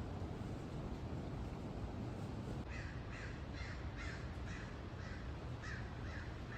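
A bird giving a rapid series of about a dozen short, harsh, crow-like calls, roughly three a second, beginning a few seconds in, over a steady low rumble.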